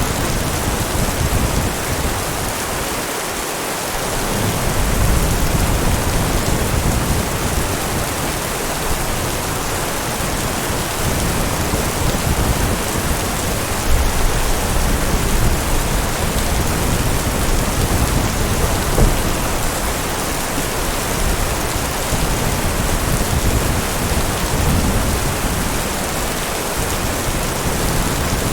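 Steady heavy rain, with low thunder rumbling in and out several times: about four seconds in, again midway and near the end.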